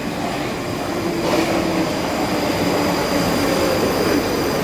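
South Western Railway electric multiple unit passing close along the platform, getting louder about a second in as the carriages go by. Steady whining tones sit over the rush of the wheels on the rails.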